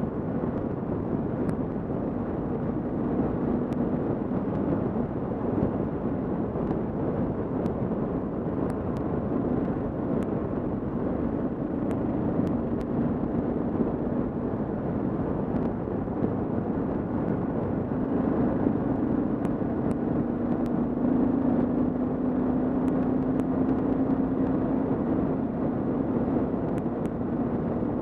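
Kawasaki KLR650's single-cylinder four-stroke engine running at a steady cruise, heard through a helmet-mounted camera over a constant rush of wind and road noise. The engine note climbs a little about two-thirds of the way through, then eases back near the end.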